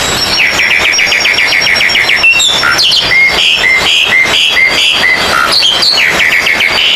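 Oriental magpie-robins singing over one another in a dense contest-style chorus of songbirds: a fast trill of short repeated notes about half a second in, then a run of evenly spaced whistled notes, about two a second, and another fast trill near the end.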